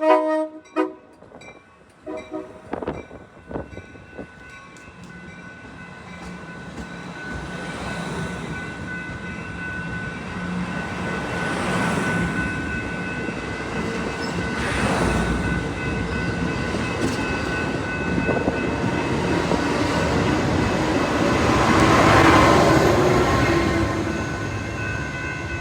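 Train horn: the end of a chord blast in the first second, then a couple of short toots. Then a train passes, its rumble and rail noise building to the loudest point about 22 seconds in and easing off near the end.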